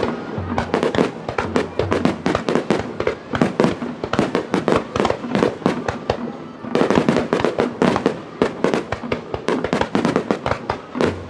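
Fireworks bursting in rapid succession, a dense string of bangs and crackles. The bursts thin out about six seconds in, then come thick again.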